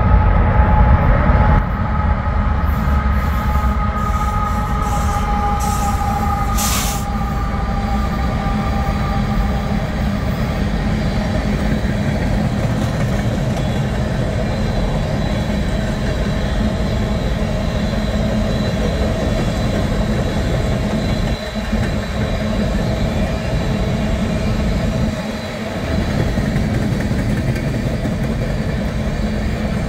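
A full-size train rolling past on the tracks: a continuous heavy rumble of wheels and cars. Two steady high tones drift slightly downward during the first ten seconds or so.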